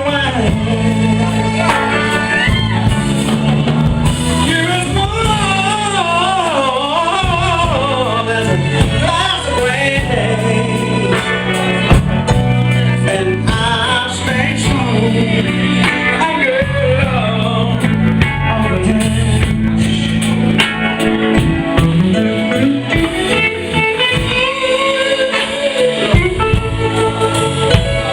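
Live band playing a soul-style ballad, with a singer's wordless vocal runs bending and wavering over bass, drums and guitar.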